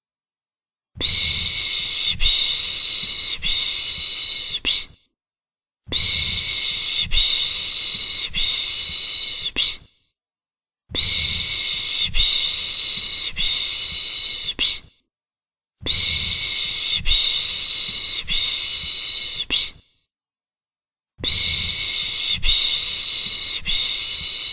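A person's soothing 'shh' shushing sound for calming a baby: a long hiss of about four seconds, repeated five times with a second of silence between, each with a faint pulse about once a second.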